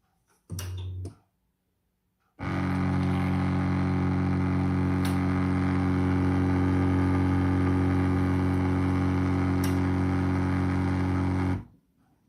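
BLACK+DECKER BXCO1200E espresso machine's pump running with a steady buzzing hum. A short burst comes about half a second in, then a long run of about nine seconds that starts and stops abruptly.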